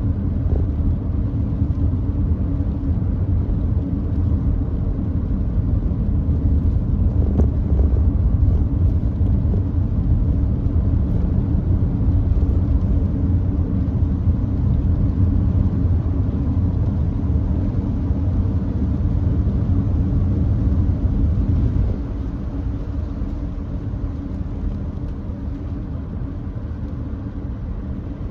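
Steady road and tyre noise of a Nissan Note e-POWER driving on a wet expressway, a low rumble that drops in level about 22 seconds in.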